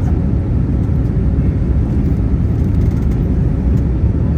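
Steady low roar inside the cabin of an Airbus A321neo in flight: engine and airflow noise with no distinct events.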